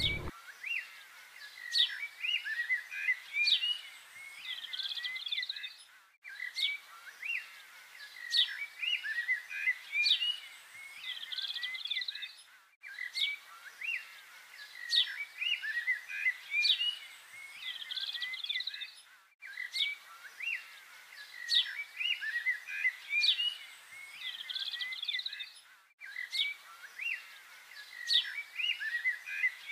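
Small birds chirping and twittering in quick high calls. The same stretch repeats about every six and a half seconds with a short gap at each join: a looped recording of birdsong.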